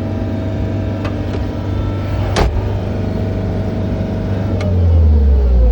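John Deere 317 skid steer's engine running steady, heard from inside the cab, then throttled down about four and a half seconds in, its pitch falling as the machine is brought to a stop. A couple of short sharp knocks sound earlier on.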